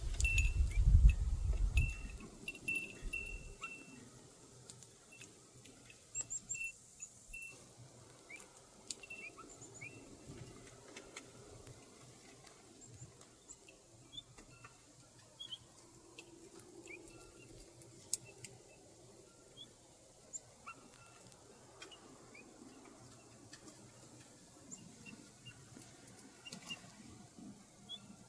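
Pine grosbeaks giving soft, short chirping calls, scattered throughout and repeated every second or so, with a low rumble in the first few seconds.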